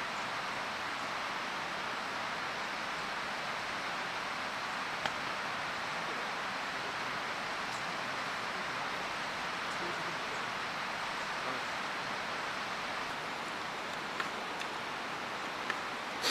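Steady rush of a mountain stream, with a few faint clicks over it.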